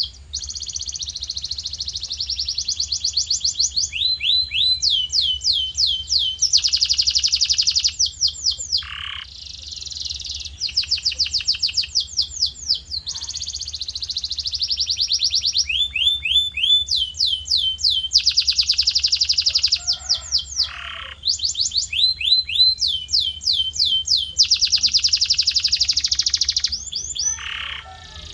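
Male canary singing a continuous song of fast trills and rolls, switching to a new repeated phrase every second or two.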